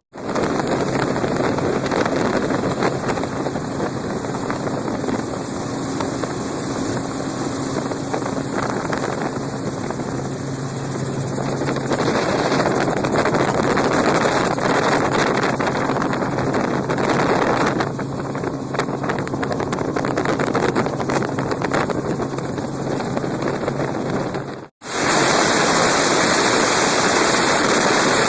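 Helicopter in flight heard from on board: steady rotor and engine noise with a faint even hum. About three-quarters of the way through it cuts out for an instant and comes back as a louder, brighter rushing hiss.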